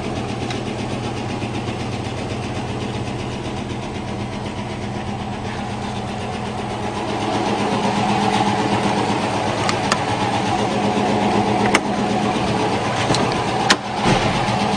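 V8 engine of a GAZ-24-34 Volga running at idle while warming up, a steady even hum that grows somewhat louder about halfway through. A few sharp clicks are heard near the end.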